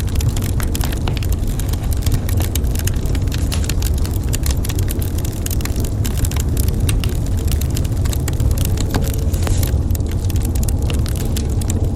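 Wood fire burning in a fireplace: a steady low rumble of the flames with frequent sharp crackles and pops of burning logs.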